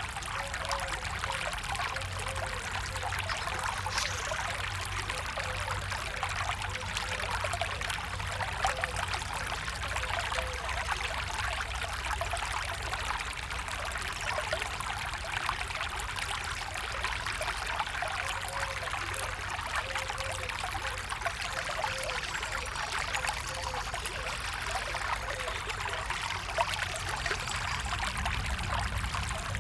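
Stream of water flowing and trickling steadily, with fine splashing and bubbling.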